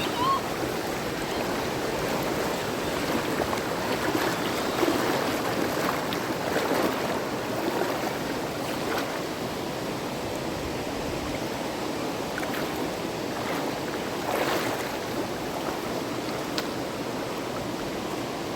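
River water flowing in a steady rush, with a few faint short splashes.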